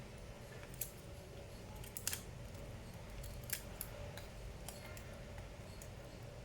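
Light clicks and taps of small laptop parts and tools being handled, with sharper clicks about a second in, at two seconds and at three and a half seconds, over a low steady hum.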